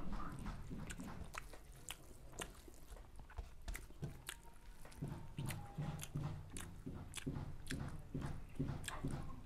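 A person chewing a mouthful of rice and chicken close to a clip-on microphone: faint wet mouth clicks and smacks, settling into a regular chewing rhythm about five seconds in.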